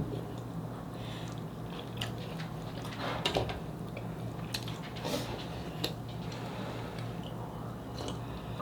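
Close-up mouth sounds of eating cheesy dakgalbi: chewing and smacking with scattered sharp clicks, and a few louder bites about three and five seconds in. A faint steady low hum runs underneath.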